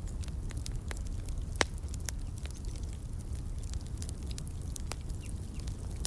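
Wood fire crackling in a fireplace: irregular small pops and snaps over a steady low rumble of the flames, with one louder pop about a second and a half in.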